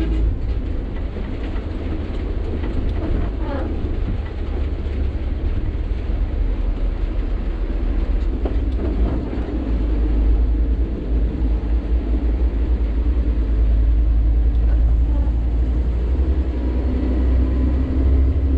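Sany 6x4 dump truck on the move, heard from inside the cab: a steady low diesel engine drone with road rumble and a few faint knocks, growing louder about ten seconds in.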